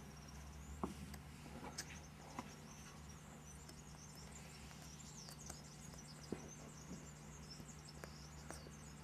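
Faint, rapid high-pitched squeaking from month-old puppies, with scattered light clicks, over a steady low hum.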